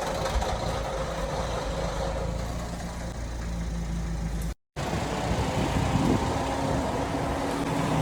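Car engine running steadily at low speed, with a brief total dropout a little past halfway.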